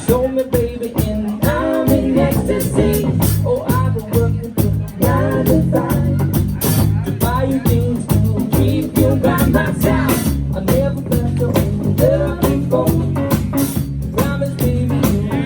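Live rock band playing a song, with drums keeping a steady beat, bass, electric guitar and a sung vocal line.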